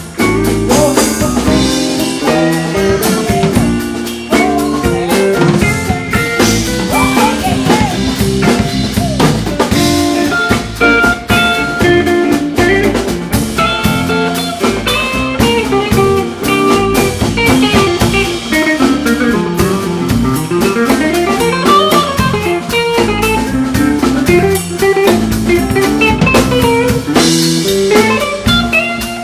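Live blues band playing an instrumental passage: a guitar plays melodic lead lines with bent notes over a drum kit and rhythm backing.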